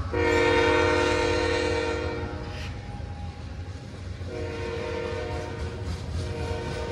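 Freight train passing at speed, its cars rumbling steadily, with a multi-note locomotive horn sounding over it. The horn sounds first for about two and a half seconds, then again from about four seconds in.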